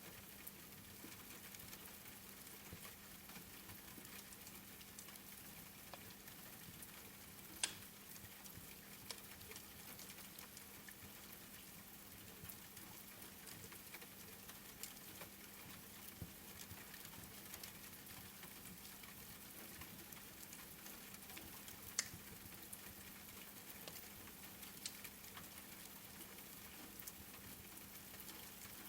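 Faint steady rain hiss mixed with the small crackles of a wood fire, with two sharper pops, one about eight seconds in and one about three-quarters of the way through.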